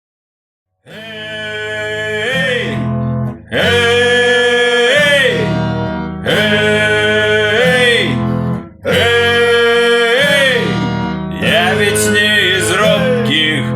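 Acoustic guitar strummed in chords under a voice singing long held notes, in four or five phrases that each slide down in pitch at the end.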